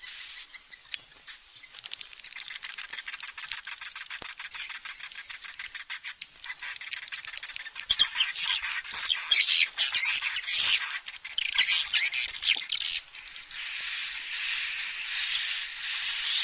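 Recorded edible-nest swiftlet calls of the kind played to lure swiftlets: a few short high chirps, then a fast ticking rattle, then louder, denser twittering about halfway through, and evenly repeated high chirps near the end.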